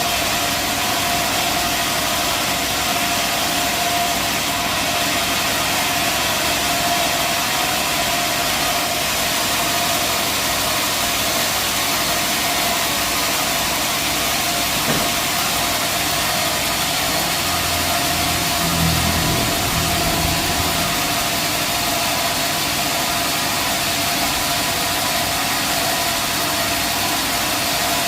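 Sawmill machinery running steadily: a continuous engine drone with a steady high tone through it. About 18 seconds in, a deeper hum swells for a few seconds and then fades.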